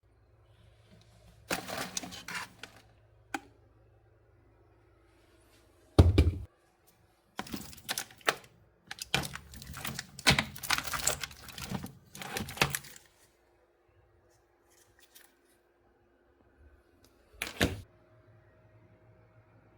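Irregular clicks, knocks and scraping as objects are handled on a work surface, coming in clusters with pauses. The loudest is a single thump about six seconds in; a busy run of clicks follows, and there is one more short cluster near the end.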